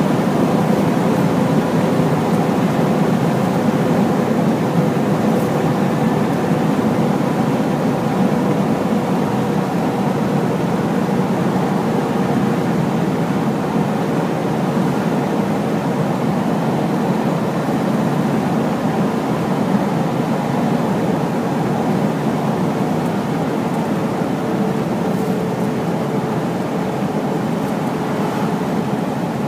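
Hino heavy truck on the move: steady engine and road noise with a faint, constant whine.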